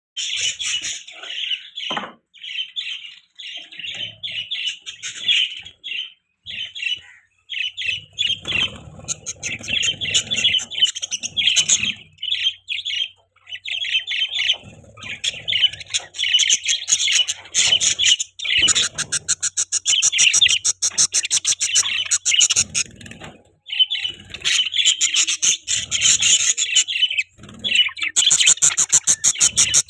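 Budgerigars chirping and chattering without a break: quick high chirps and warbles, with runs of fast clicking chatter in the second half.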